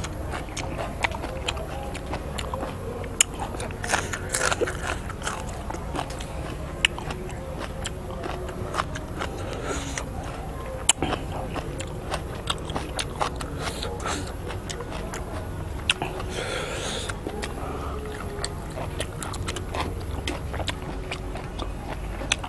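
Close-miked chewing and biting of a raw shrimp and chili salad, with many short wet mouth clicks and smacks and a few brief slurps.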